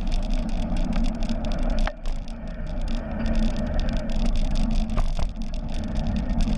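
Steady riding noise from a bicycle in motion: wind rumbling over the microphone and tyres rolling, with a faint steady hum and a few small clicks about two and five seconds in.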